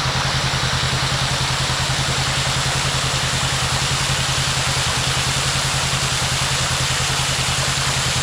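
Side-by-side UTV engine running steadily at low speed, its note pulsing evenly, with a constant hiss over it.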